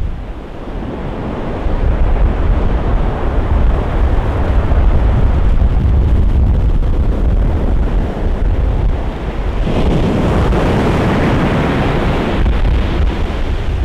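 Ocean surf breaking and washing up the beach, with strong wind buffeting the microphone as a low rumble throughout. About ten seconds in a bigger wave breaks, a louder hiss of surf that lasts a couple of seconds.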